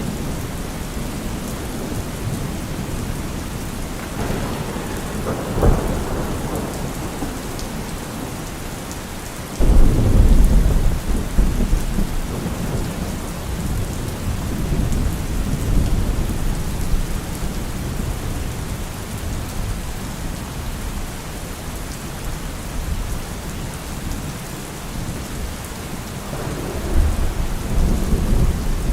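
Steady rain with rolling thunder: a sharp crack about five seconds in, then a sudden loud rumble a few seconds later that slowly dies away, and another rumble building near the end.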